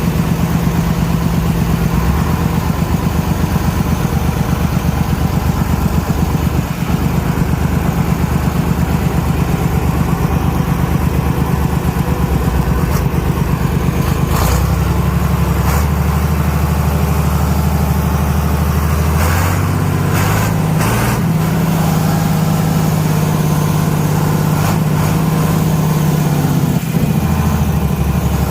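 1972 John Deere 4020 tractor engine running steadily as the tractor is moved, its note changing speed about 14 seconds in and again about 19 seconds in. A few short clicks and knocks come through in the middle.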